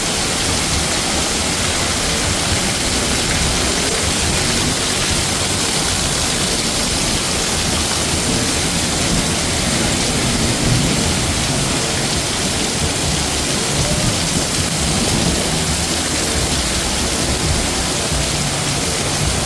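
Heavy rain pouring steadily, a dense even hiss, with a low rumble underneath.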